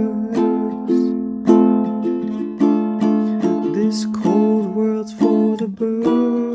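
Acoustic plucked-string accompaniment, strummed in a steady rhythm of chords, playing the instrumental ending of the song without singing.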